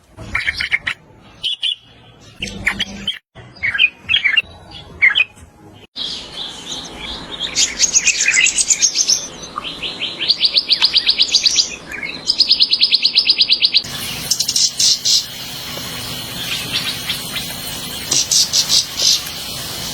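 Purple-throated euphonia (fim-fim) singing. First come scattered short, high notes, then fast runs of rapidly repeated high notes.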